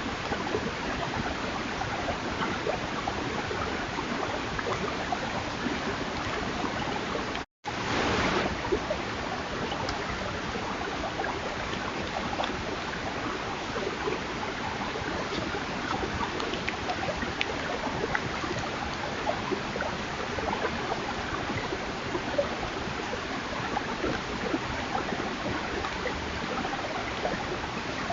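Steady rushing hiss with many small scattered clicks and crackles. It cuts out completely for a moment about seven and a half seconds in, then comes back slightly louder for about half a second before settling again.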